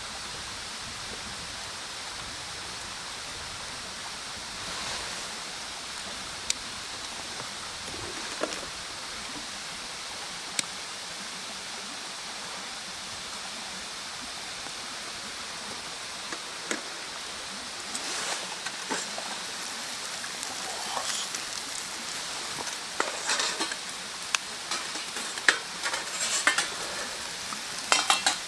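Wood fire burning with a steady hiss and occasional sharp pops; from about two-thirds of the way through, the crackling grows busier and louder.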